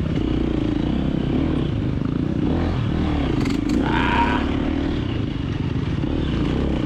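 KTM 350XC-F four-stroke single-cylinder dirt bike engine running under load on a trail, its pitch rising and falling as the throttle works, with a brief higher, louder burst about four seconds in.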